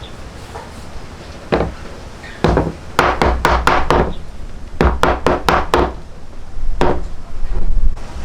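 Hard wood-on-wood knocks from a wooden hammer striking: a couple of single blows, then two quick runs of four or five strikes at about four a second, and one last blow.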